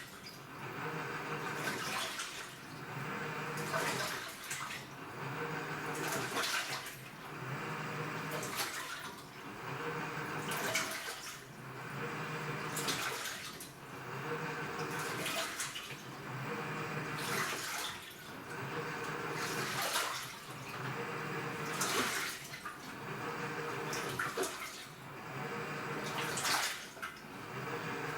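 AQUA washing machine with a direct-drive inverter motor agitating a load in water: the motor hums through a stroke, then the water sloshes, in an even rhythm of about one stroke every two seconds.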